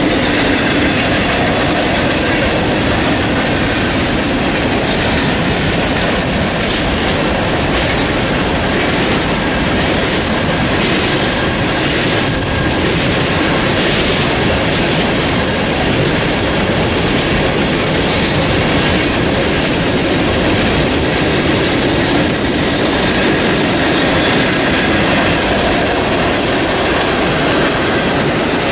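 Freight train cars rolling past steadily, wheels rumbling and clattering on the rails, with a faint, regular clatter.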